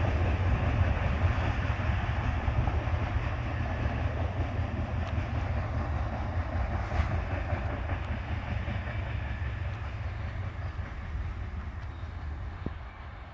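Freight train moving away down the line, its low rumble fading steadily into the distance.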